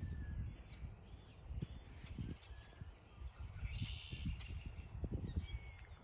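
Birds calling and chirping in a few short bursts, over an irregular low rumble.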